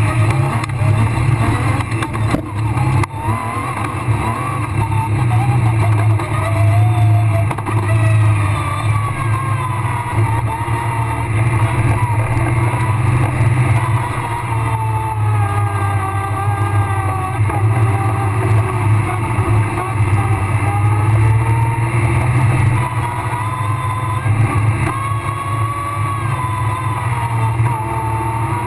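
Rally car engine heard loud from inside the cockpit, its revs rising and falling over and over as the car is driven flat out through a special stage.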